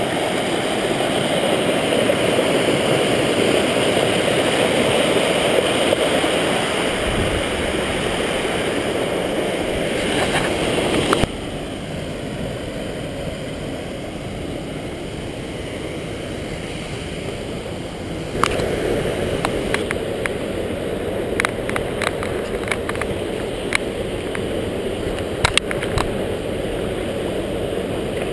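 Rushing river water, a steady even rush that drops abruptly about eleven seconds in and comes back up about seven seconds later. Sharp clicks and knocks are scattered through the last part.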